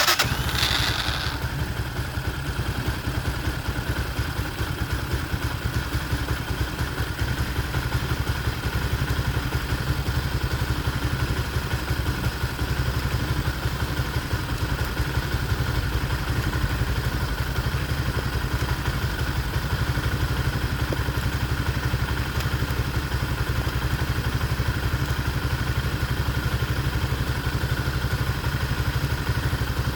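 Motoland 166FMM 250 cc single-cylinder four-stroke engine starting for the first time after a repair. It catches abruptly with a brief rev, then idles steadily.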